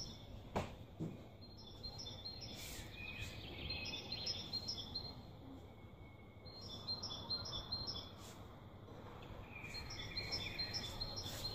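A bird singing in short phrases of quick, high, stepped notes, repeated every few seconds over faint outdoor background noise. A single sharp knock sounds about half a second in.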